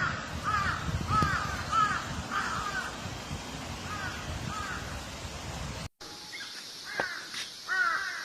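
Crows cawing: a steady series of short, arched caws, about two a second, over a low rumble. The recording cuts out just before six seconds in, and the caws resume in a second recording, louder near the end.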